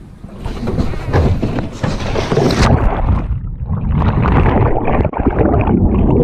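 Loud, rough water and wind noise around a small boat being put into the water. The sound starts strong about half a second in and stays dense, with sharp knocks or splashes mixed through it.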